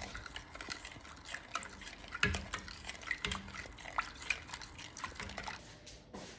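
Spoon stirring milk and sugar in a cooking pot as homemade condensed milk cooks over low heat, with many small irregular clicks and scrapes of the spoon against the pot.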